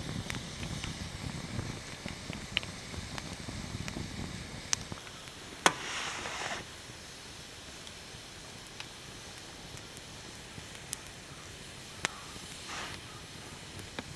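Wood fire crackling, with scattered sharp pops and two short bursts of rustling, one about six seconds in and one near the end.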